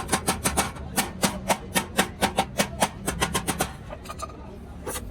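Fast run of hammer blows on sheet steel while a truck silencer is being made by hand, about four strikes a second, stopping near the end with one last blow.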